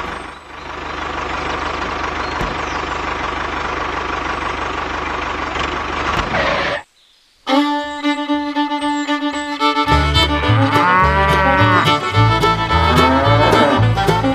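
Cattle mooing over a dense, noisy background for about seven seconds, cut off suddenly. After half a second of silence, fiddle music starts, and a rhythmic bass line joins it a couple of seconds later.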